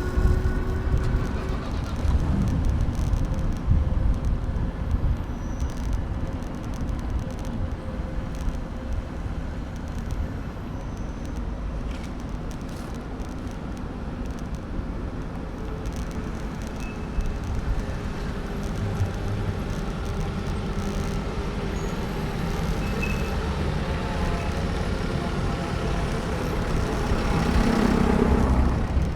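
City street traffic, cars passing and running, heard from a moving bicycle, with low wind rumble on the handlebar-mounted camera's microphone; the traffic swells about 27 seconds in.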